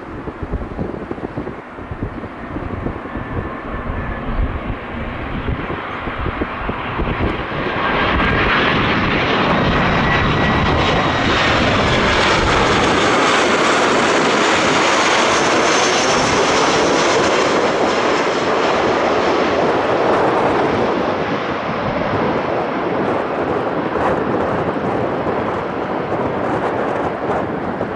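Aircraft engines passing the airport, building to a loud, steady noise about a third of the way in, with tones sliding in pitch as it goes by, then slowly fading. Wind buffets the microphone at the start.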